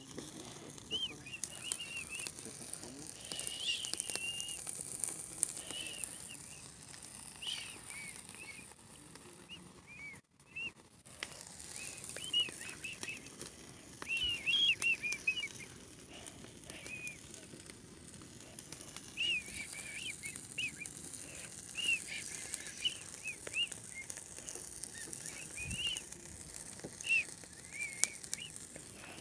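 A campfire crackling and hissing, with many short high chirping notes throughout.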